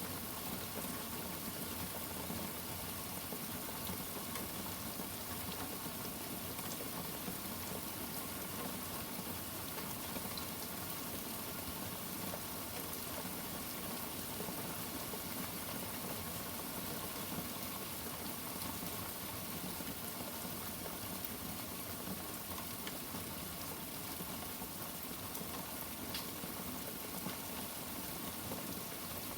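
Steady rain, an even hiss with no thunder claps.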